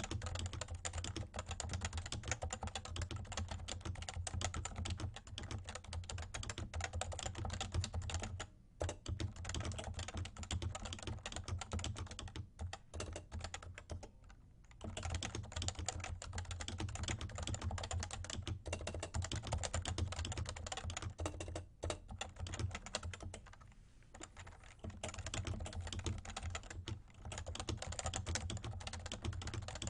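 Fast continuous typing on a Realforce R2 Topre keyboard with light 30 g switches, a rapid run of soft key clacks. It stops briefly three times, about nine, fourteen and twenty-four seconds in. A steady low hum runs under the typing.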